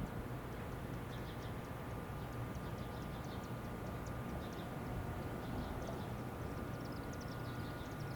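Birds chirping: many short, high notes in quick runs over a steady low rumble.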